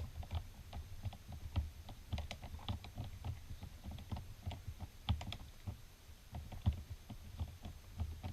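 Light, irregular clicking and tapping, several a second, from hands working on a plastic RC car, tightening the screws on its off-road wheel.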